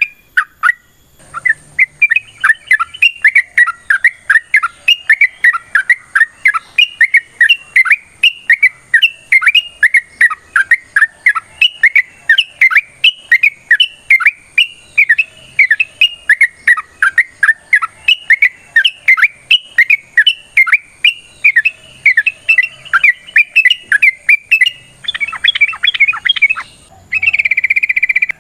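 Yellow-vented bulbul (trucukan) calling in a long, rapid run of short sharp chirps, about three a second, turning into a faster jumbled chatter and a short buzzy trill near the end.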